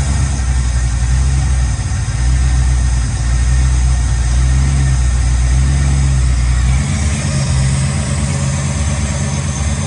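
Freshly swapped aluminium 6.0-litre LS V8 running at idle in its first minutes of running, still being tuned. The idle note shifts a couple of times, about two seconds in and again near the end.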